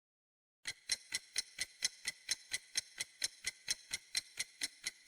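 Clock-ticking timer sound effect: light, even ticks at about four a second, starting a little under a second in.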